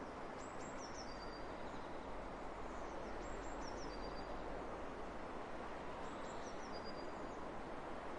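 Steady wind hiss across open fields. Over it a small songbird sings a short, high phrase of falling notes three times, about three seconds apart.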